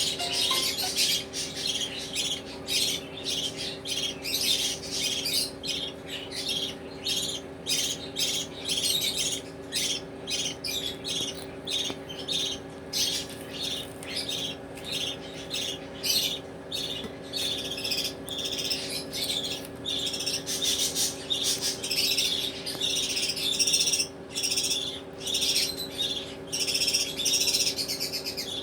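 Baby budgerigars chirping and chattering continuously in quick, dense calls, over a steady low hum.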